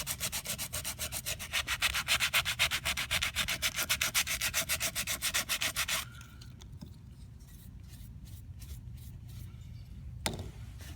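Coarse sandpaper scrubbed rapidly back and forth over a cured vinyl ester coating, roughening it to give the repair a surface profile to stick to. The sanding stops about six seconds in.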